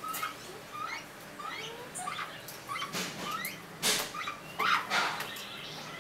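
Birds chirping: a short rising call repeated about twice a second, with a few louder scuffling noises between about three and five seconds in.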